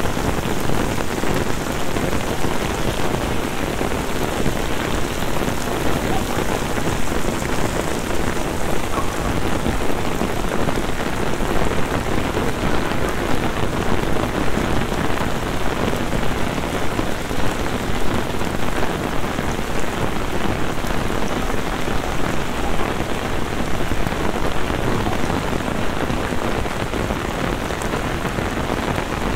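Heavy downpour: dense, steady rain falling on a paved street and splashing into the water pooling on it.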